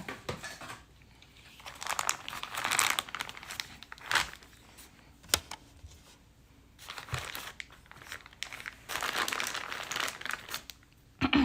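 Plastic crinkling as clay is handled in its plastic bag or wrapping, in two stretches, with a few sharp knocks in between.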